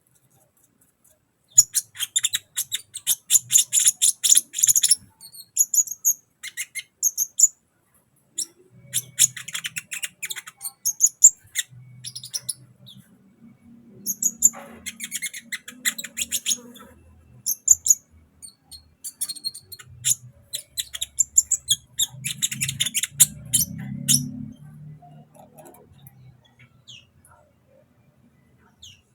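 Sunbird singing in a series of fast, high-pitched chattering phrases of rapid repeated notes, with short pauses between them. A faint low rumble runs underneath in the middle.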